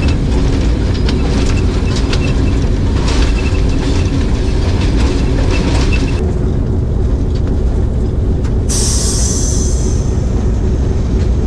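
Passenger train running, heard from on board: a steady low rumble of wheels on the track. About six seconds in the higher sounds drop away for a couple of seconds, then a high hiss comes in.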